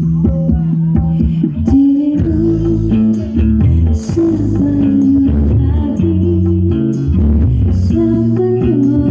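Music with a heavy bass line and guitar, played loud through a large sound system.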